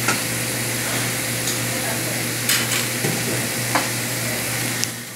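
Chicken breast pieces sizzling steadily in hot oil in a frying pan, over a steady low hum, with a few light clicks.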